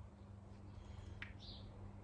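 Quiet room tone with a steady low hum, and one faint, short high chirp about a second and a half in.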